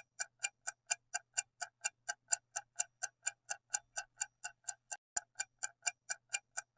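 Clock-style ticking of a quiz countdown-timer sound effect, short sharp ticks at an even pace of about four a second.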